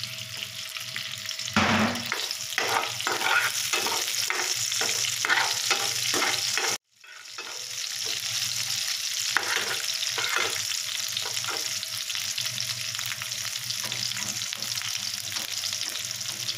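Dried fish frying in oil in a metal karai, a steady sizzle, with a steel ladle scraping and clicking against the pan in quick strokes for the first several seconds. The sound cuts out completely for a moment about seven seconds in, then the sizzle carries on with only an occasional scrape.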